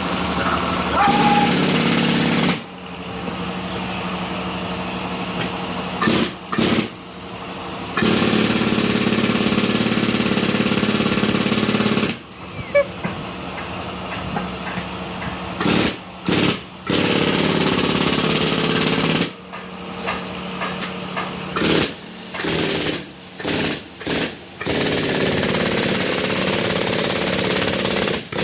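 Tyre-changing machine running with a steady mechanical drone that stops briefly several times and starts again.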